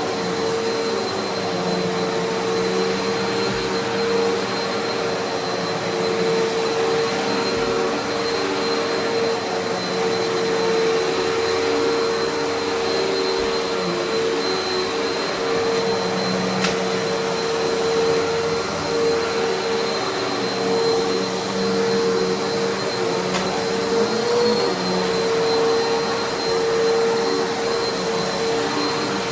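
Eureka Altima upright vacuum cleaner running steadily over carpet, its motor holding one steady whine over a constant rush of suction.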